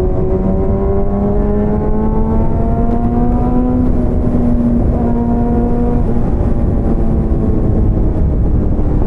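Motorcycle engine running under way, its pitch climbing slowly over the first four seconds and then changing to a steadier note about five seconds in, over heavy low wind rumble on the microphone.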